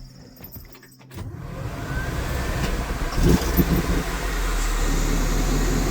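GM 5.3-litre LS V8 in a 1949 Chevrolet pickup starting about a second in, catching right away, and settling into a steady idle.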